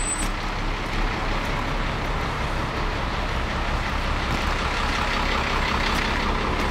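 Steady low rumble of idling delivery truck engines, with an even wash of noise over it.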